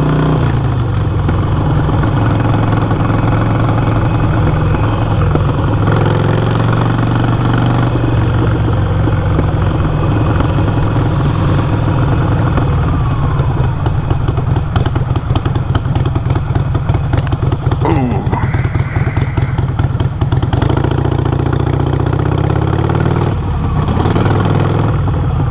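Harley-Davidson Iron 883's V-twin engine running under way on the road. The engine note steps up and down several times as the rider works the throttle, with a throbbing pulse in the middle stretch.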